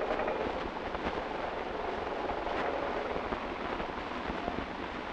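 Freight train running along the track, heard from the roof of a moving car: a steady rumble with a few knocks from the wheels and cars.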